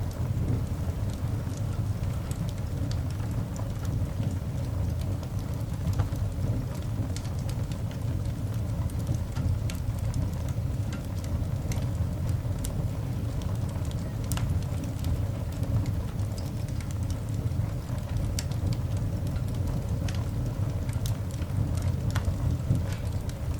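Coal fire burning in a cast iron dog grate: a steady low rumble with scattered sharp crackles and pops.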